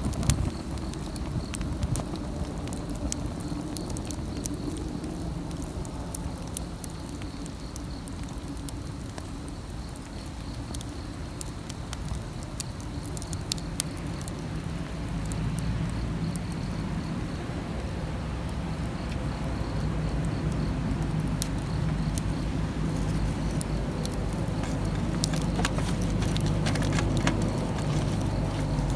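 Wood campfire burning, with scattered sharp crackles and pops over a steady low rumble that grows a little louder in the second half.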